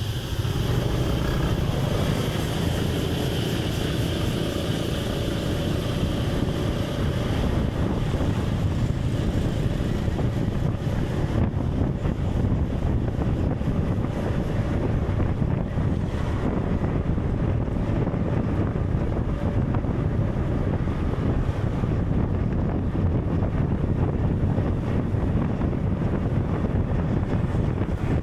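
Steady, loud, low rumbling wind-like noise, with a faint held tone running through roughly the first two-thirds.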